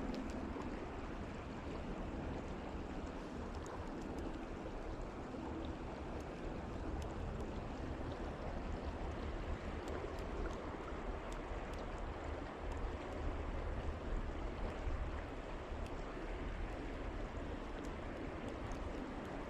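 Creek water rushing steadily, the stream running high and fast after rain.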